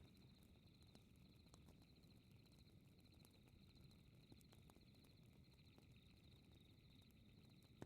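Faint night ambience: crickets chirping in steady, repeating pulsed trills over a low rumble, with sparse small crackles from a fireplace.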